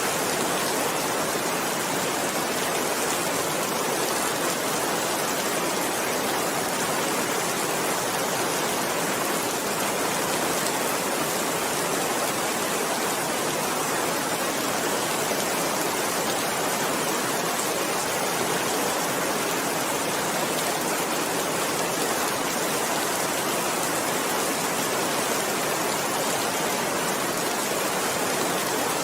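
Steady rain falling without a break, an even hiss with no thunder or separate drops standing out.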